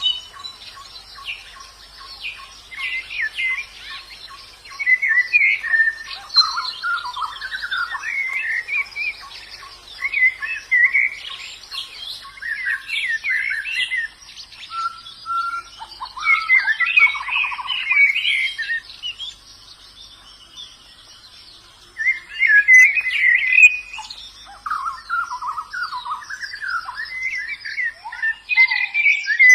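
White-eyes (pleci) singing: runs of fast, twittering, warbled phrases, with a lull of a couple of seconds about two-thirds of the way through.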